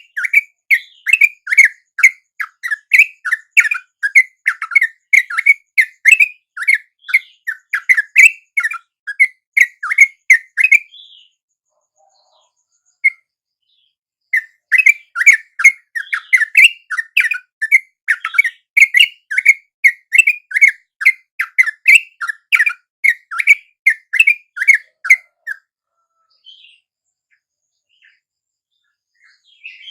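Yellow-vented bulbul (trucuk) song: a fast run of short, bubbly notes, about three a second, in two long bouts about eleven seconds each with a pause of about three seconds between them.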